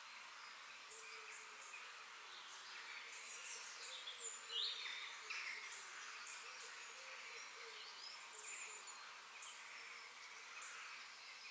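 Faint outdoor nature ambience: many birds chirping and calling over a steady high hiss of insects, with one louder downward-sliding bird call about four and a half seconds in.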